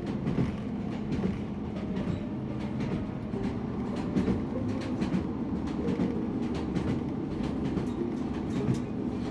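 Passenger train running along the line, heard from inside the carriage: a steady low rumble with irregular clicks and knocks.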